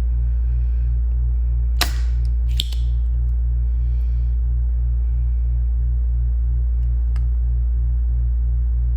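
Steady low hum of an electric desoldering tool's vacuum pump running while solder joints on a circuit board are desoldered. Two sharp clicks come about two seconds in, under a second apart.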